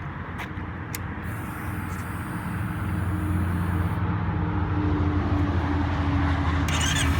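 Kawasaki Ninja 300's parallel-twin engine being started: a couple of clicks and a faint high whine, then the engine runs up about three seconds in and settles into a steady idle.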